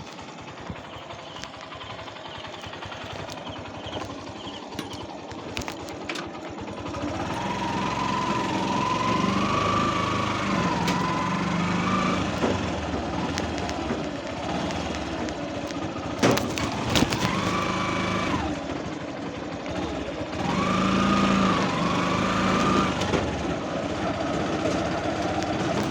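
A motor vehicle engine running and growing louder. Three times a wavering high tone rises over it, and a few sharp knocks come about two-thirds of the way through.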